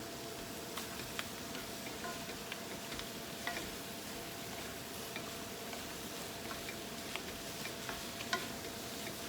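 Chicken, prawns and vegetables sizzling in a frying pan, with scattered clicks and taps of a utensil stirring them.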